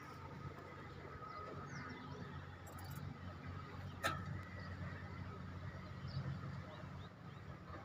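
Faint outdoor ambience: a few scattered bird chirps over a steady low rumble, with a single sharp click about four seconds in.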